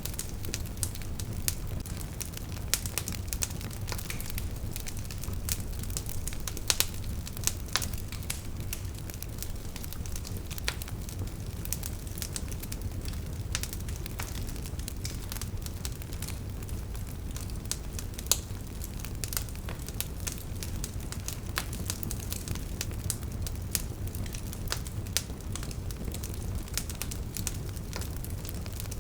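Wood fire burning: logs crackling with frequent irregular sharp pops over a steady low rumble of the flames.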